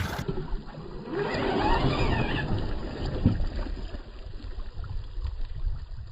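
Brushless electric motor of an RC mud truck whining as it revs up and back down, about a second in, over a steady low rumble of wind on the microphone.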